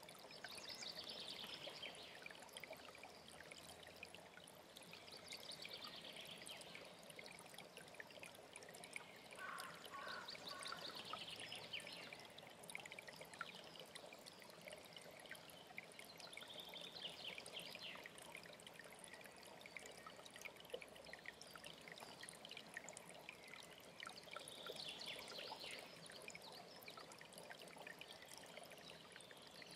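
Faint running water of a mountain stream, steady throughout, with a small songbird singing short high phrases every few seconds. About ten seconds in, a brief lower call of a few quick notes.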